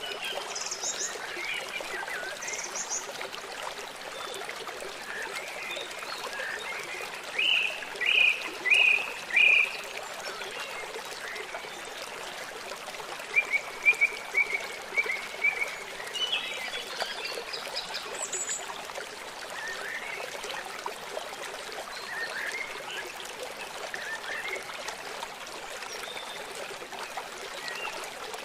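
Birds chirping and calling over a steady trickle of running water, with a loud cluster of three or four calls about a quarter of the way in and a quick run of chirps near the middle.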